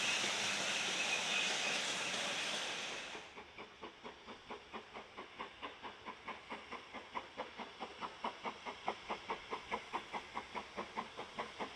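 Steam locomotive: a loud hiss of steam that cuts off about three seconds in, then regular exhaust beats at about four a second, slowly quickening and growing louder as the engine gets under way.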